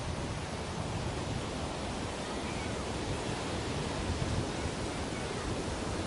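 Ocean surf washing steadily onto a beach, a constant rushing hiss with no single wave standing out.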